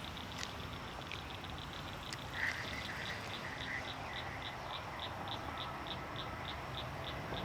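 A small creature calls in short high chirps, evenly repeated about three times a second, with a brief run of lower chirps about two and a half seconds in.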